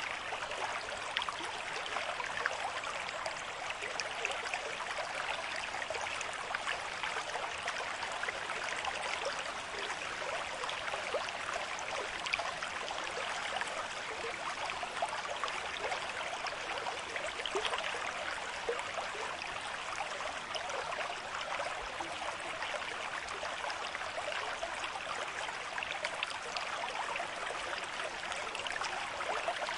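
A river stream with moderate flow, water running and splashing steadily over rocks, a continuous babble of small splashes and gurgles.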